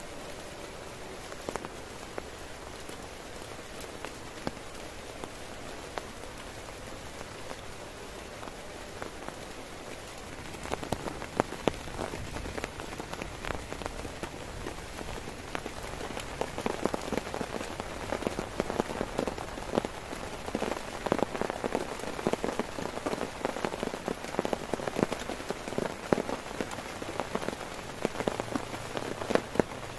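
Heavy rain falling on a tent: a steady hiss at first, then from about ten seconds in a dense patter of individual drops striking the fabric that grows louder.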